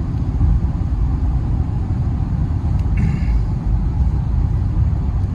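Steady low rumble of road and engine noise inside the cabin of a 2015 Infiniti Q50 while it is being driven. A brief faint tone sounds about three seconds in.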